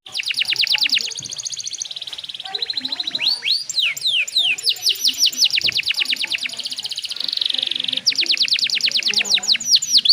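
Domestic canary singing: fast trills of rapidly repeated, downward-sweeping whistled notes that switch from one phrase to the next every second or two, with a buzzier roll near the middle. This is the kind of song used as a lure to get other canaries singing.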